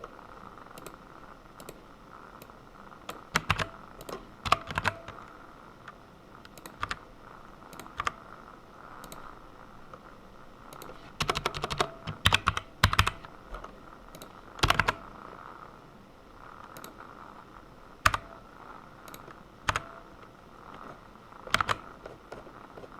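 Typing on a computer keyboard in short, irregular bursts of keystrokes with pauses between them, over a faint steady hum.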